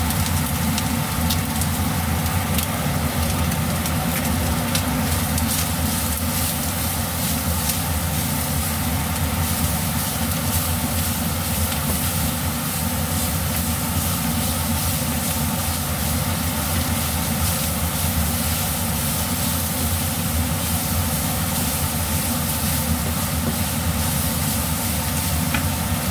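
Chicken pieces and chopped onion sizzling in a stainless-steel frying pan, stirred and scraped now and then with a wooden spatula, over a steady low hum.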